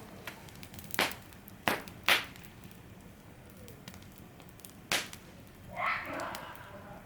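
Campfire wood crackling, with four sharp pops spread over the first five seconds. A short hissing rush follows about six seconds in.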